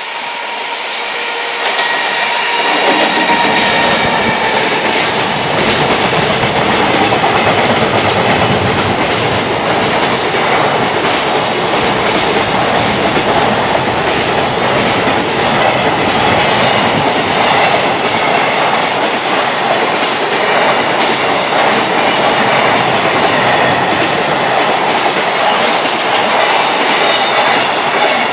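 Electric-hauled freight train passing at speed. The sound builds over the first three seconds as it arrives, then holds as a loud, steady clatter of wheels over rail joints while the wagons run by.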